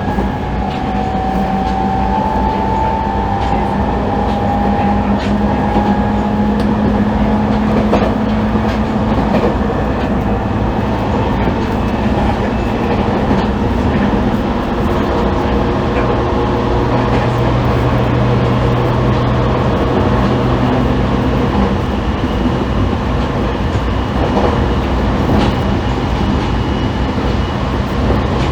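Running sound inside an E501 series electric multiple unit's motor car at speed: a steady rumble of wheels on rail, with steady traction-motor tones that shift in pitch now and then.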